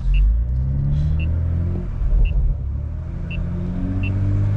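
BMW M340i's turbocharged B58 inline-six engine accelerating: its note rises for almost two seconds, dips briefly, then climbs steadily again.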